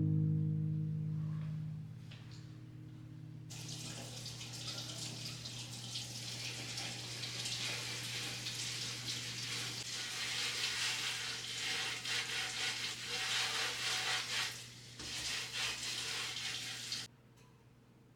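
Water running from a tap into a sink for about thirteen seconds, dipping briefly near the end, then shut off.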